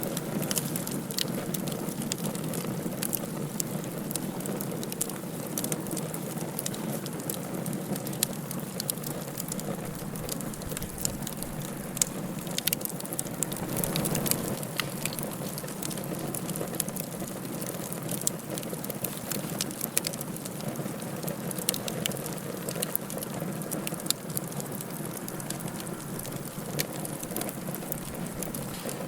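Wood fire in a fireplace crackling, with frequent sharp pops and snaps over a steady low rushing hiss.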